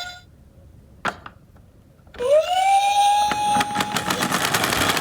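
Toy emergency vehicle's electronic siren switching on about two seconds in: a wail that rises and then holds one steady pitch. A dense, clicking rattle joins it about a second later. There is a single sharp click about a second in.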